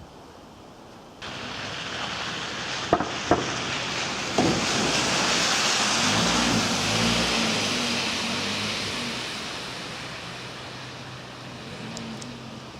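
A vehicle passing: a rushing hiss that starts abruptly, swells and then slowly fades, with a low hum at its loudest and three sharp clicks about three to four seconds in.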